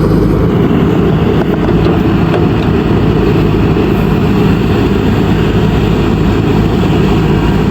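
JCB backhoe loader's diesel engine running steadily and loud, with a deep, even sound.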